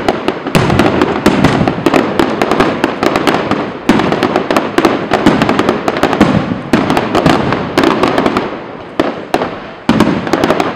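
Aerial fireworks bursting in a dense barrage: rapid, overlapping bangs and crackles with no pause between them.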